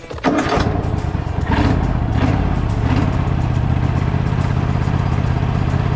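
Cub Cadet riding mower's engine running steadily at partial throttle to warm up, its air box and air filter removed. The sound comes in abruptly about a quarter second in.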